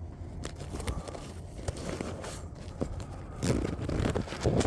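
Handling noises in a kayak as a caught fish is held and laid out to be measured: scattered clicks, scrapes and rustles, growing louder and busier in the last second or so.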